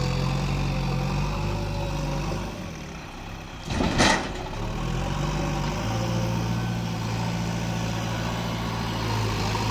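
Heavy diesel engine running at a steady note that sags and picks up again a few seconds in. About four seconds in comes one short loud crash.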